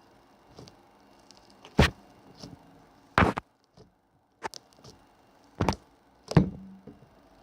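Four sharp knocks spread across several seconds, with fainter taps between them. The last knock leaves a brief low ring.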